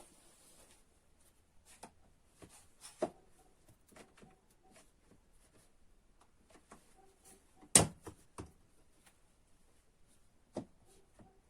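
Scattered light clicks and knocks of a workpiece and tools being handled on a workbench, with one sharper knock about eight seconds in; no motor running.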